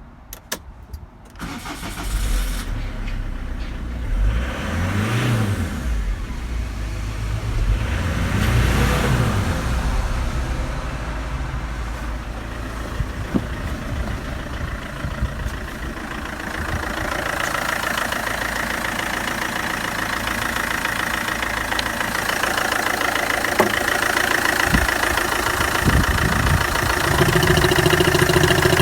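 Citroën Jumper 2.0 HDi DW10TD four-cylinder turbodiesel starting after a few clicks and catching about two seconds in. It is revved up and down twice, then settles to a steady idle.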